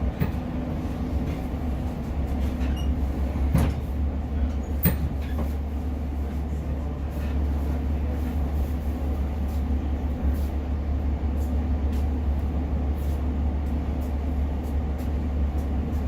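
Class 150 diesel multiple unit under way, heard from on board: a steady low running rumble with two sharp knocks about three and a half and five seconds in.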